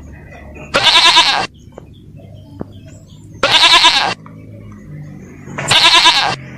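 A farm animal bleating: three loud, wavering bleats, each under a second long, a couple of seconds apart.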